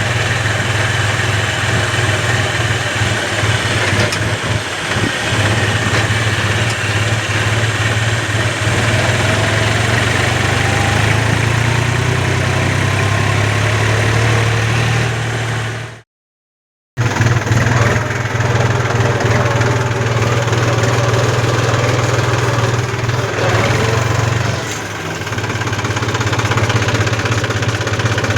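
New Holland tractor's diesel engine running with a steady, loud low drone. The sound drops out completely for about a second just past halfway, and the drone dips briefly near the end.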